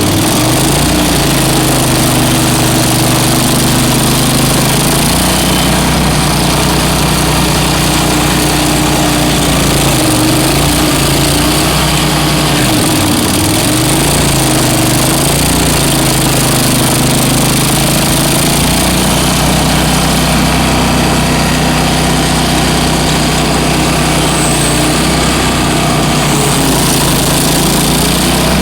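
Bandit ZT1844 stump grinder's engine running hard and steadily. Its pitch dips briefly and recovers a few times, about a second in and again around ten and thirteen seconds in, as the engine takes load.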